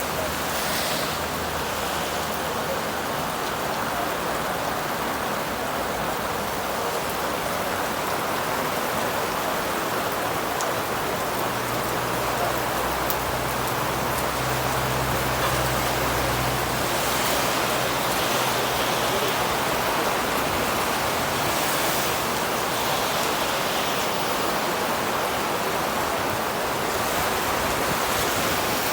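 Steady rain falling, an even hiss that holds level throughout. A low hum joins it for several seconds in the middle.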